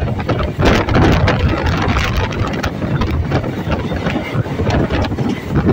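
MEMU electric train running, heard on board: a loud, steady rumble with irregular knocks, and wind buffeting the microphone.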